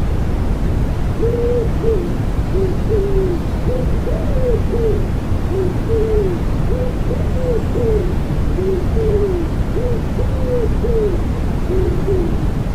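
Common wood pigeon cooing: repeated phrases of short, low, soft coos over a steady white-noise hiss.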